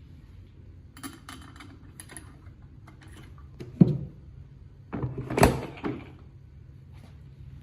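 A run of light clicks, then two knocks, the louder one a little after five seconds in: small parts or tools being handled during hand work on a motor.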